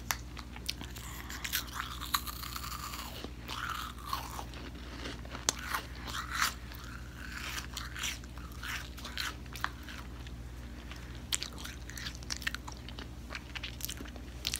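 A person biting and chewing a small crunchy snack close to the microphone, with many sharp crunches and crackles.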